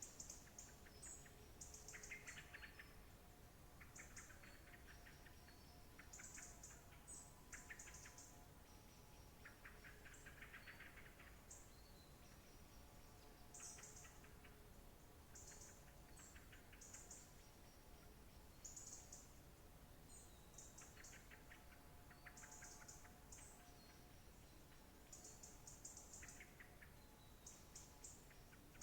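Faint birdsong from several birds: short high chirps and lower trilled phrases every second or two, overlapping throughout, over a soft steady background.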